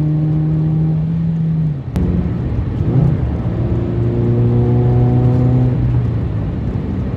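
Toyota GR86's flat-four engine with an aftermarket exhaust running steadily while driving. A sharp click comes about two seconds in, after which the engine note settles at a lower pitch.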